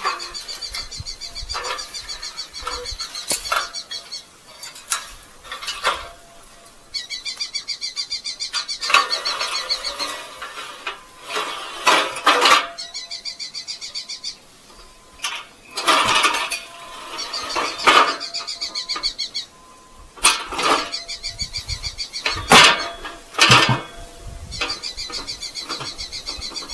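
Red-footed falcons calling in fast, rapid-fire runs of high chattering notes, several runs in a row, mixed with irregular sharp knocks and metallic clinks.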